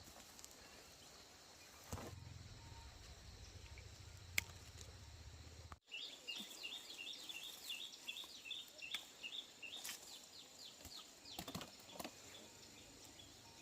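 Quiet outdoor ambience with a bird giving a rapid run of short, high chirps for about four seconds midway, and a few scattered clicks.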